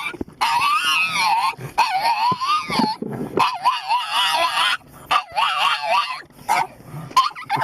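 A dog whining and yowling in a series of drawn-out, warbling calls whose pitch wavers up and down, like dog 'talking', with shorter yips near the end.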